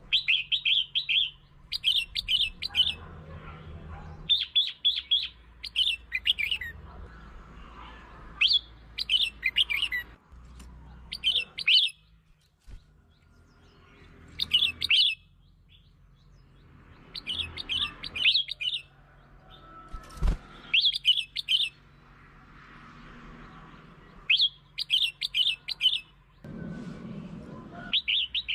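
Red-whiskered bulbul song: short, bright, chirpy phrases repeated every second or two, with brief gaps between them. It is the song used to lure and stimulate other bulbuls.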